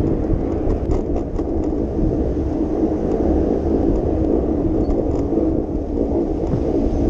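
Steady low rumble of a bicycle ride on city streets: tyre and road noise with wind on the microphone, and a few faint clicks about a second in.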